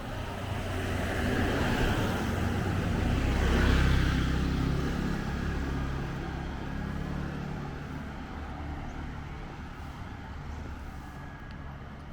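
Motor vehicles passing on a city street. Engine and tyre noise swells twice in the first few seconds, peaking with a low engine rumble about four seconds in, then dies down to a steady background traffic hum.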